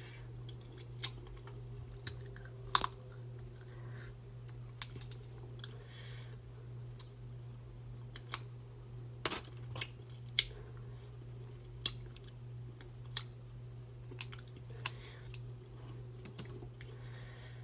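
Close-miked eating of a seafood boil: chewing and biting, with scattered sharp crunches and clicks, the loudest about three seconds in, over a steady low hum.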